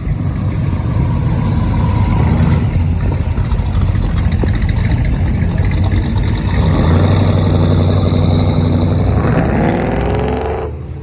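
Car engine running with a steady low drone, then revving up with a rising pitch about nine seconds in.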